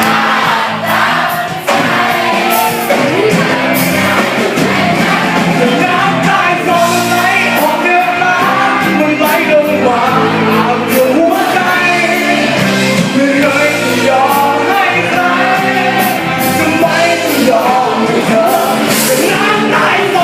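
A singer with a live band performing a song, with drums and cymbals striking steadily under the vocal line.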